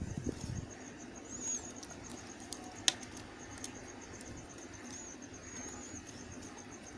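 A faint, steady, high-pitched pulsing trill, with one sharp click about three seconds in and a few soft low thumps at the very start.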